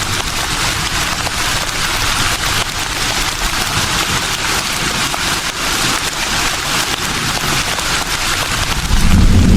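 Breeze rustling through leaves: a steady, crackly hiss. Near the end, a sudden deep rumble comes in and becomes the loudest sound.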